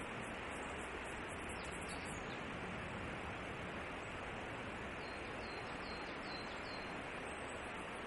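Steady hiss of outdoor background noise. About five seconds in, a bird gives a quick series of about six short, falling high notes; the uploader takes it to be a meadow bunting, though unsure. Faint, very high rapid pulsing near the start.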